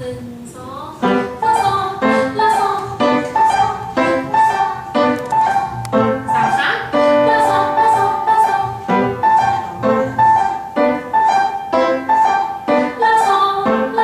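Piano playing a simple beginner's tune, notes struck at an even pace of about two a second.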